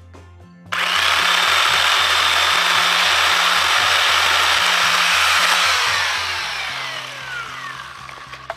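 GreenWorks 10-inch 6-amp corded electric chainsaw starting up suddenly and running at full speed with a high whine for about five seconds, then released and winding down, its pitch falling as the motor coasts to a stop. A sharp click near the end.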